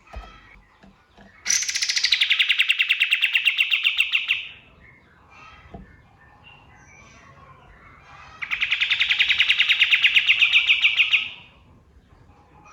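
Kapas tembak songbird giving two fast, rattling trills, each about three seconds long, of rapidly repeated sharp notes, roughly ten a second. Each burst opens slightly higher and then holds steady. Faint scattered chirps sound between the two bursts.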